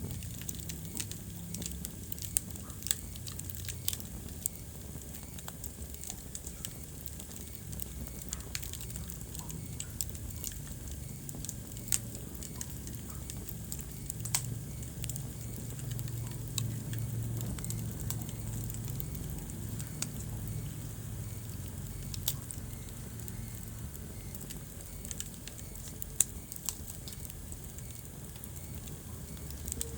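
Wood fire crackling in a fireplace: sharp, irregular pops and snaps over a low, steady rumble of the flames.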